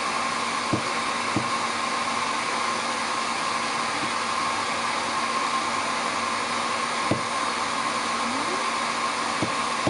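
Hair dryer running steadily on a long-haired Ragdoll cat's coat, a continuous blowing hiss with a steady whine, and a few light knocks scattered through it.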